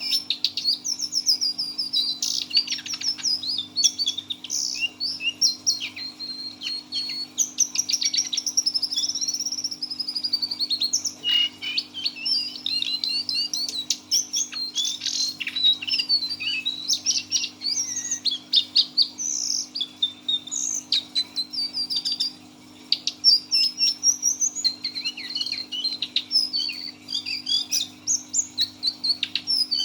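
A brown cingcoang (lesser shortwing) singing in a long, near-unbroken run of fast, varied high trills, whistles and chirps, pausing briefly about twenty-two seconds in. This continuous delivery is the 'teler' song style that its keeper prizes.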